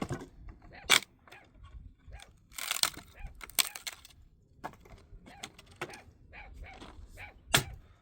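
Irregular knocks, clacks and rustling handling noise, with two sharp cracks, about a second in and near the end.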